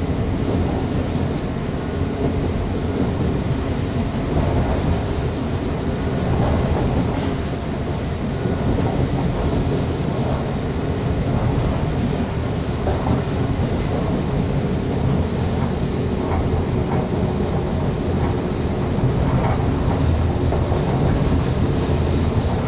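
Running noise of a passenger train heard from inside the carriage: a steady rumble of wheels on the rails, with occasional faint clicks from the track.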